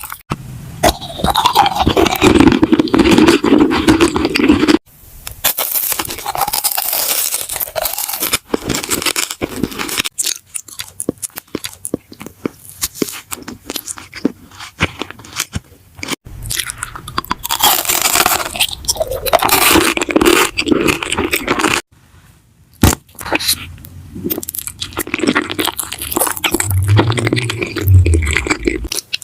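Close-miked ASMR eating: crisp biting and crunchy chewing of food, with some scraping. The sound comes in several stretches that cut off abruptly and start again.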